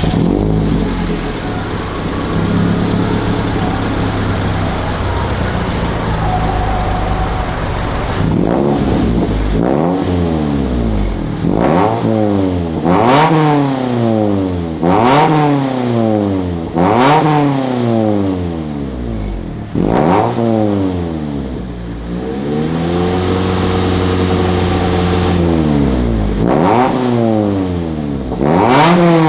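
Toyota MR-S's 1.8-litre four-cylinder engine breathing through a TRYFORCE titanium muffler with an aftermarket exhaust manifold and catalyzer: it runs steadily at first, then is revved in a series of quick throttle blips, each rising and falling about every two seconds, is held at a higher rev for a few seconds, and is blipped again near the end.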